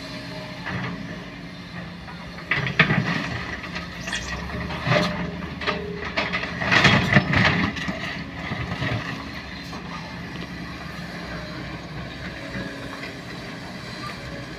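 Sany SY215C hydraulic excavator's diesel engine running steadily while it digs, with bursts of clanking and scraping from the bucket and boom, loudest about seven seconds in.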